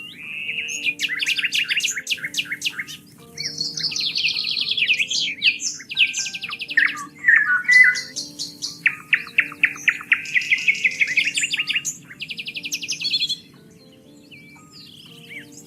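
Songbirds singing in a run of rapid trills and chirping phrases that pause near the end, over soft background music of slow, held low notes.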